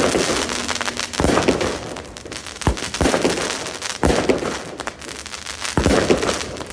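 Fireworks going off: about six sharp bangs spread over the stretch, each followed by a burst of dense crackling.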